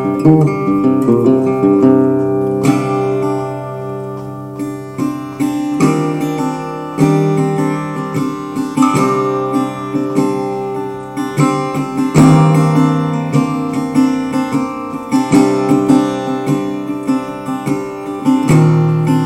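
Acoustic guitar music with steady strumming.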